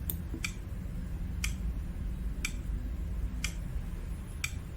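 Countdown timer ticking, a clock-tick sound effect about once a second, over a steady low hum.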